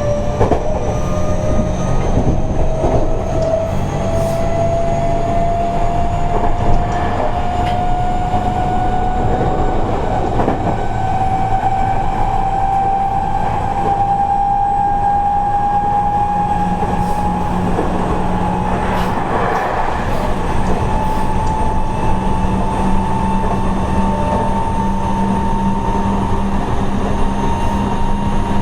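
Seibu 30000 series electric train running, heard from inside the passenger car: a steady rumble with faint rail-joint clicks. Over it, the traction-motor whine climbs slowly and steadily in pitch as the train gathers speed.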